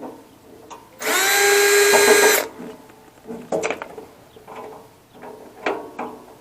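Power drill spinning up and running for about a second and a half, unscrewing a screw from a metal server rack panel, followed by a few light metal knocks and clicks as parts are handled.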